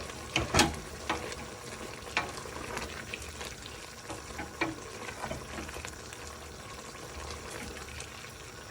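Chicken pieces sizzling in a pan over a high gas flame, cooking in the juices they have released, with several sharp clicks and scrapes from a utensil stirring them in the first half.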